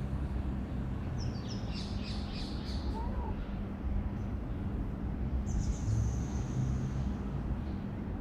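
Small birds chirping in two short bursts of quick high notes, over a steady low rumble.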